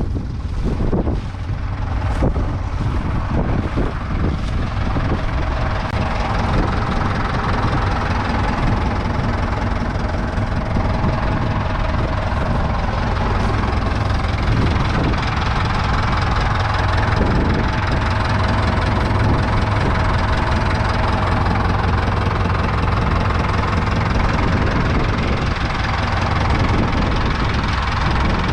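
Diesel engines of a Doe 130 double tractor, two Ford 5000 four-cylinder 3.8-litre diesels, running steadily with a deep, even hum, with wind buffeting the microphone in the first few seconds.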